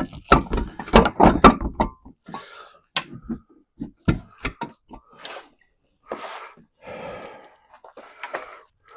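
Plastic clicks and knocks from a headlight assembly and its connectors being pushed and worked into place, a dense run in the first two seconds, then scattered single clicks with short bursts of rustling.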